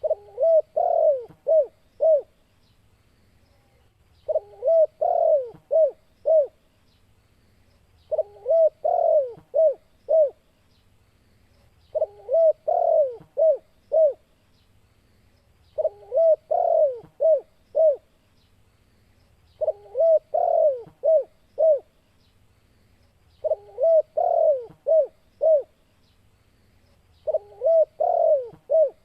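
Spotted dove (tekukur) cooing its song over and over: about every four seconds it gives a rolling coo followed by three short coos, the same phrase each time.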